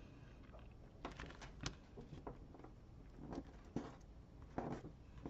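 Faint, scattered rustles and light taps of paper and craft materials being handled and pressed down by hand.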